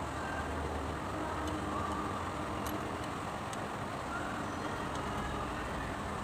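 Steady mechanical running noise with a low hum, and a few faint light clicks.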